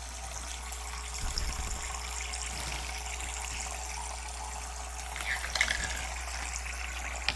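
Water running steadily in a pet birds' bath with the faucet-style water on, with a short louder stretch about five seconds in.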